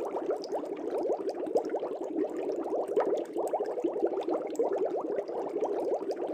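Aquarium air bubbles rising and gurgling steadily in a fish tank: a dense, continuous stream of small bubbling blips with scattered little pops.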